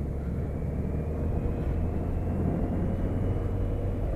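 BMW K1200RS motorcycle's inline-four engine running as the bike rides along, with a steady low rumble and a faint whine that rises slowly in pitch as the bike gathers speed.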